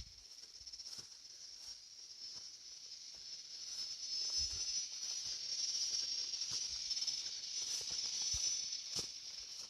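A steady, high-pitched insect buzz that swells in the middle and fades near the end, with scattered light clicks.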